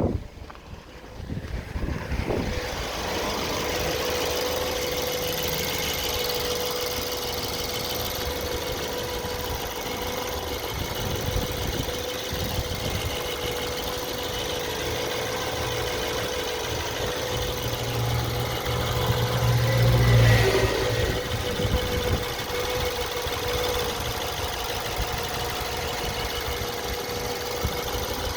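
BMW E90 318i's N43 four-cylinder petrol engine running at idle, a steady sound that sets in about two seconds in and grows louder and deeper around twenty seconds in. The car is being recorded for an intermittent engine knock.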